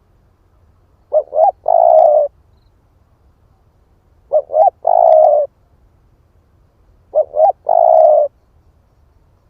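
Spotted dove cooing: three calls about three seconds apart, each two short quick notes followed by one longer, lower coo.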